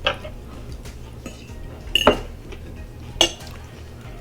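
Eating utensils clinking against a plate, three separate clinks, the second and third ringing briefly.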